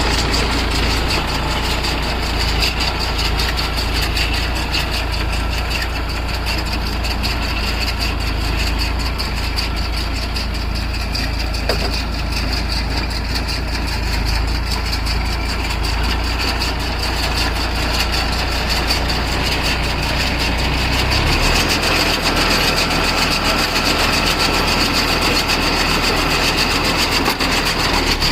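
New Holland 3230 NX tractor's diesel engine running steadily with a deep drone; about three-quarters of the way through the low hum drops and the engine note changes.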